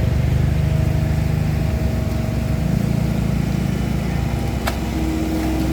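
Excavator's diesel engine running steadily, with one sharp click near the end.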